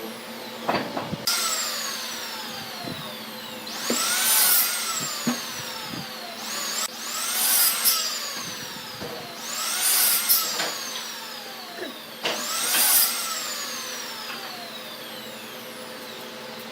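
A small electric power tool's motor spinning up and winding down four times, about three seconds apart, each start a quick rise in pitch and each run-down a slow falling whine.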